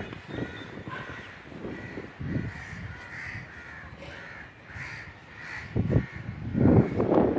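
Birds calling over and over in short repeated calls, with a louder low rumble about six seconds in and again near the end.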